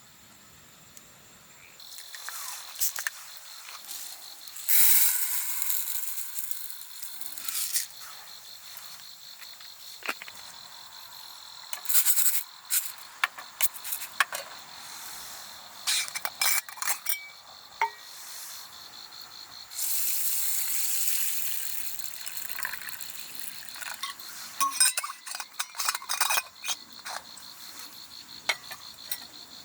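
Camping gear being handled: scattered clinks, knocks and rustling, with two longer hissing stretches, over a steady high insect trill that comes in about two seconds in.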